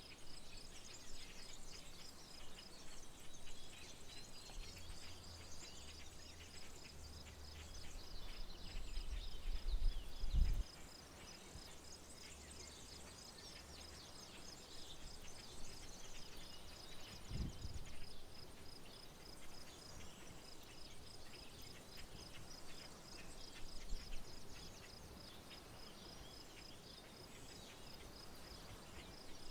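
Rural outdoor ambience: an insect's steady, evenly pulsed high trill runs throughout, with scattered bird chirps. A low rumble swells from about five seconds in, is loudest near ten seconds, then fades, and a short low thump comes a few seconds later.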